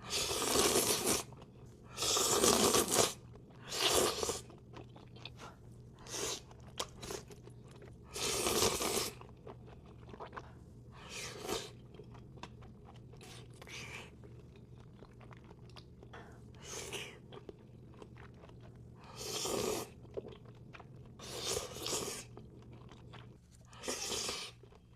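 Close-miked eating: crunching and chewing, with about seven louder bursts of bite noise, each roughly a second long, and soft mouth clicks and smacks between them.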